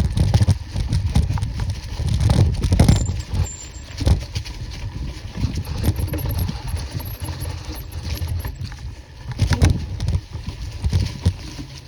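Wind buffeting the microphone of a phone mounted on a BMX bike's handlebars during a fast downhill run on a dirt track, with rattles and knocks from the bike jolting over the ground. The rumble comes in gusts and is heaviest in the first few seconds.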